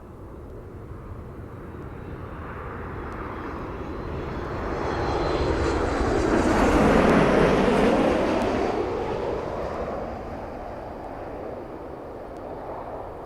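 Boeing 737 airliner passing close on its landing approach, the jet noise of its twin turbofan engines swelling to a peak about seven seconds in and then fading away, with a sweeping rush as it goes by.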